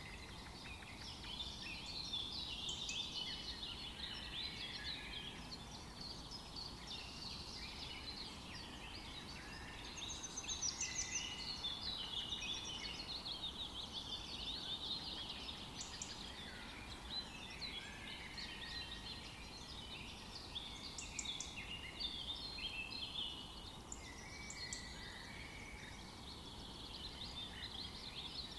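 Many songbirds chirping and trilling at once, overlapping calls with no pause, over a faint steady background hiss.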